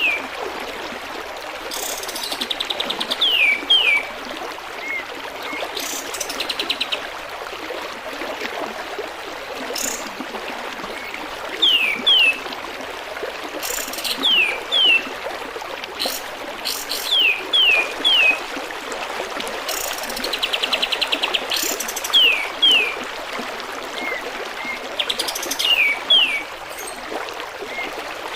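Kapas tembak bird calling over a steady trickle of running water: quick falling whistled notes in twos and threes, a few short rapid trills, and sharp high chips.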